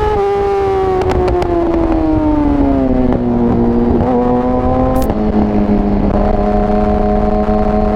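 Yamaha R6 inline-four sport bike engine heard onboard, its revs falling steadily over the first three seconds as the bike slows, then holding steady at lower revs. A few clicks about a second in and a sharp click about five seconds in.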